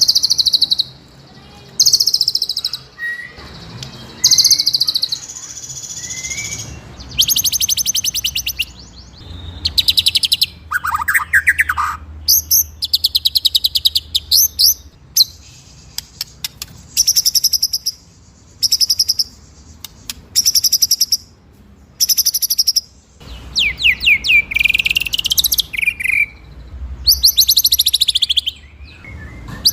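White-rumped shama (murai batu) singing a run of short, high phrases, many of them fast rattling trills, with brief pauses between them.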